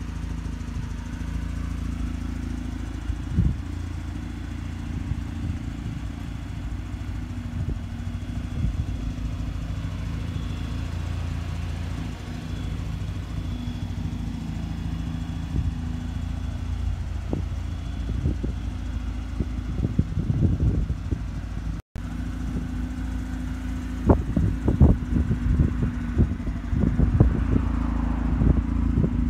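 Mazda RX-8's two-rotor rotary engine idling steadily, with irregular short, sharp sounds that come thicker in the last few seconds.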